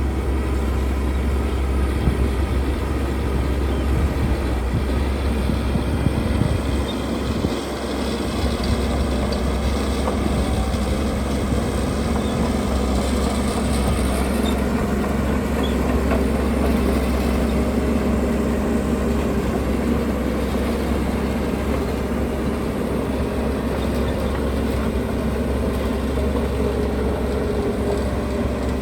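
Heavy diesel construction machinery running continuously with a deep, steady low rumble.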